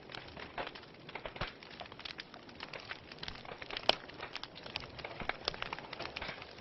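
Wood fire burning in a fireplace, crackling with irregular pops and snaps over a soft hiss; one sharper pop about four seconds in.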